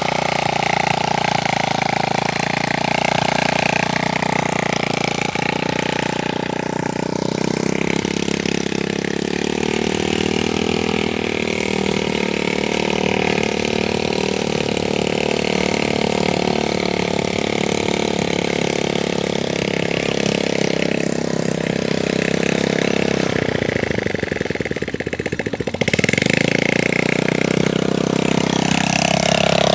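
Vehicle engine running steadily, its pitch dipping and coming back up about three-quarters of the way through.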